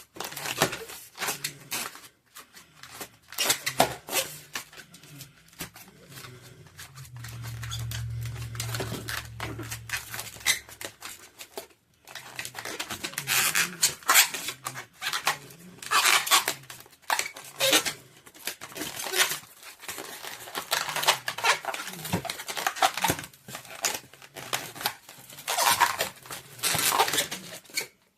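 Latex twisting balloons being handled and twisted: rubbery squeaks, rubbing and sharp snapping clicks, some loud. A low steady hum runs for about four seconds in the first half.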